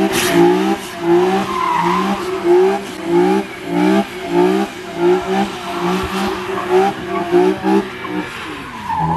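Car engine revved in quick repeated bursts, about two a second, each one rising briefly in pitch, with tires squealing; it stops near the end.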